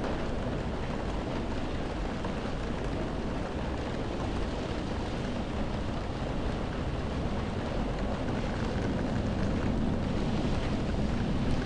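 Heavy rain beating on window glass during a windy storm, heard from indoors: a steady, dense rush with a low rumble that swells slightly near the end.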